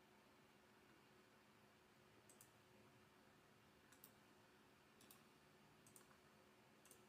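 Near silence with a faint room hum, broken by about five soft clicks at a computer, some in quick pairs.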